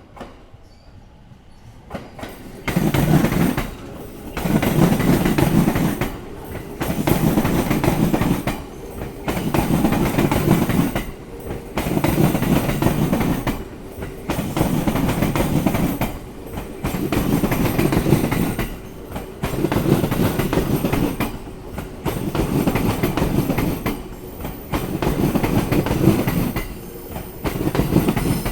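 Electric commuter train rolling over rail joints, a loud rhythmic clatter car after car, about a dozen heavy pulses a couple of seconds apart as the bogies cross the joints.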